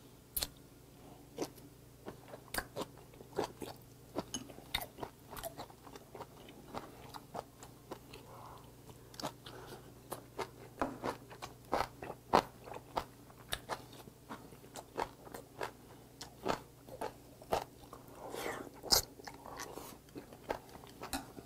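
Close-miked chewing and biting of boiled hagfish: an irregular run of short, sharp mouth clicks, one to three a second.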